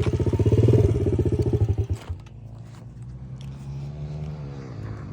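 Pit bike engine running close by with a rapid, even exhaust beat that stops abruptly about two seconds in; fainter pit bike engines rev and change pitch after it.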